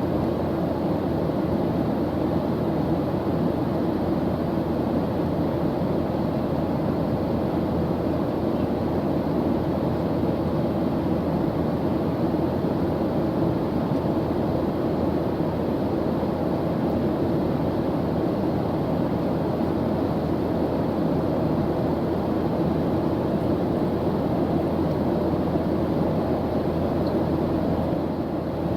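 Airplane engine noise in flight: a steady, even drone with its weight low, unchanging throughout.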